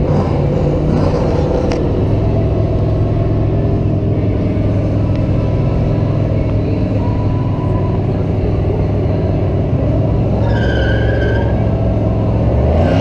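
Loud, steady low engine note of drag cars running at the starting line of a drag strip, starting to change pitch just before the end.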